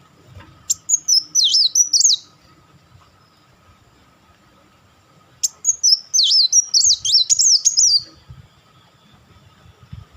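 Kolibri wulung sunbird singing two quick bursts of high, rapidly sweeping chattering notes, the first near the start and a longer one in the middle, each ending abruptly.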